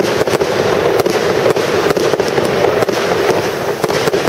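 An aerial fireworks display firing a dense volley: many bangs and crackles a second from bursting shells, running on without a break.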